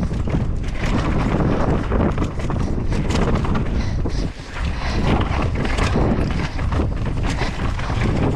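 Wind buffeting a helmet-mounted microphone while a mountain bike rides over rough, rocky ground, with steady rattling and clattering from the bike and tyres; there is a brief lull about four seconds in.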